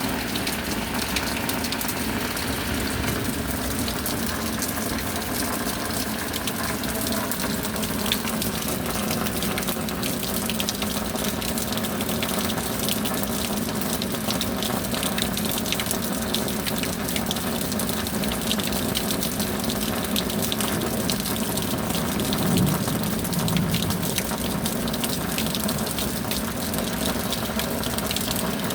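Steady rain, a dense, even patter of drops over a wash of falling water, a little louder for a moment about three-quarters of the way through.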